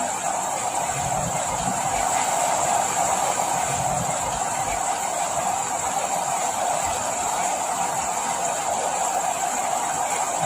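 Steady rain, an even, continuous hiss.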